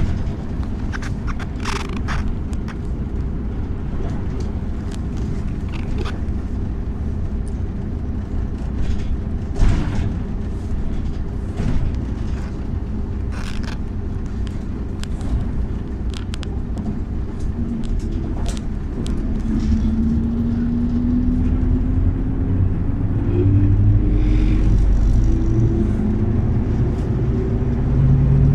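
MAZ-103 city bus under way, heard from inside: a steady low engine and road rumble with scattered short rattles and knocks. About two-thirds of the way through, a rising whine sets in and the noise grows louder as the bus speeds up.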